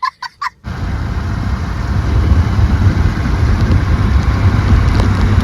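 Heavy monsoon rain falling, with wind buffeting the microphone in a loud, steady rush and rumble that sets in under a second in.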